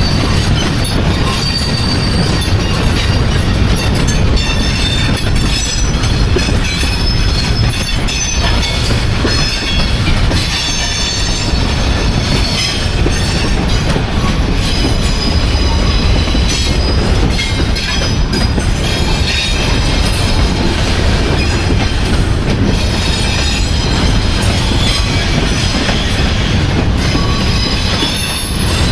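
Freight train cars rolling past with a steady heavy rumble, the wheels squealing in high thin tones that come and go.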